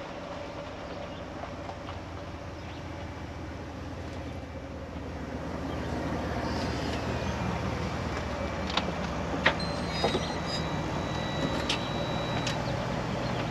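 Detroit DD13 diesel engine of a Freightliner Cascadia idling steadily, getting louder about halfway through. A few sharp clicks and a brief thin high tone come near the end.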